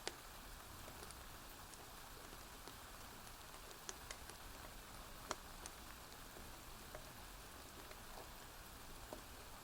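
Steady soft rain falling, with a few sharp pops scattered through it, the clearest about four and five seconds in.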